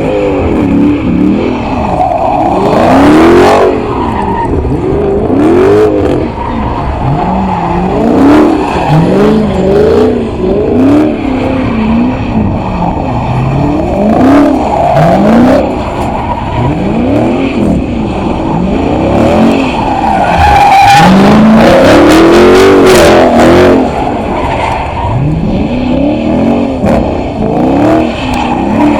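A car spinning donuts: its engine revs up and drops again over and over, every second or two, while the tyres squeal and skid. The tyre noise is heaviest for a few seconds about two-thirds of the way through.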